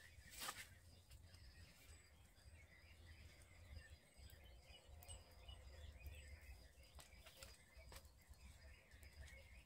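Near silence with faint birdsong chirping in the woods, and one brief rustle of the poncho being handled about half a second in.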